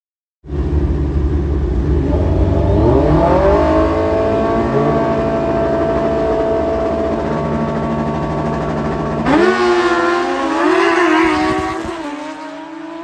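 Drag-racing sport motorcycle engines at full throttle on a pass, starting abruptly, the pitch climbing and then holding high. About nine seconds in the sound changes suddenly to another rising engine note, which fades away near the end.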